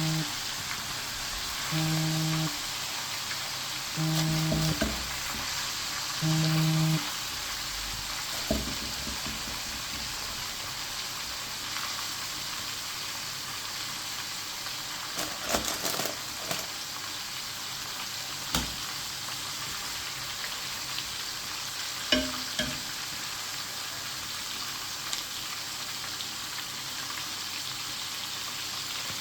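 Food frying in hot oil in a pan, a steady sizzle. Four short, low-pitched buzzes about two seconds apart sound in the first seven seconds, and a few sharp knocks of utensils come later.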